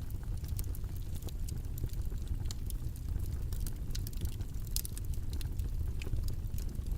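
Steady ambient background noise: a constant low rumble with small, irregular crackles and clicks scattered through it.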